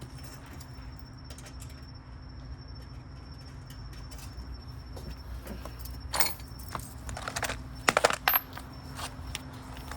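Metal clinks and clanks from tools and suspension parts being handled, with louder clanks about six seconds in and a quick cluster around eight seconds, over a steady low machine hum.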